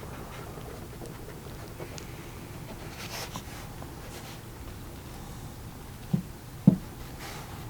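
Quiet rustling and handling as leather lacing is worked and pulled tight around a motorcycle grip, with two dull knocks about half a second apart near the end.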